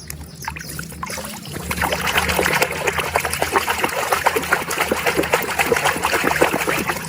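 Water running and splashing as a muddy plastic toy animal is rinsed under it, growing louder about a second and a half in.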